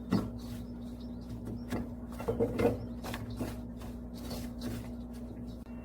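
Hands rubbing and crumbling a dry, crumbly cookie dough of carrot pulp, flour and olive oil in a bowl: irregular soft scraping and rustling with light knocks, over a steady low hum.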